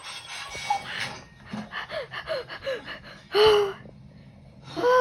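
A person's voice gasping: a run of short breathy gasps, then two loud gasping cries with falling pitch, about three and a half and five seconds in.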